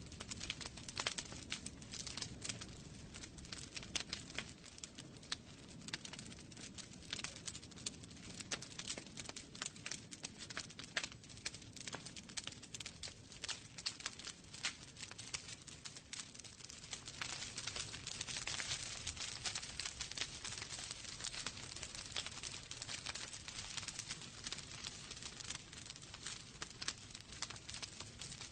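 Wood fire in a fireplace crackling, with many sharp irregular pops and snaps over a low rumble of flames; a hiss swells for a few seconds past the middle.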